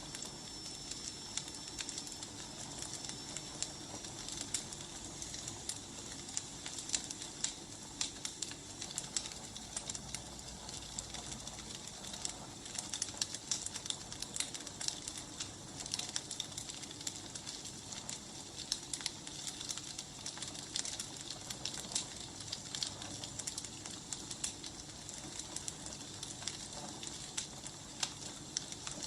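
Wood fire burning, with a steady hiss and frequent small crackles and pops. A faint high whistle sounds during the first few seconds.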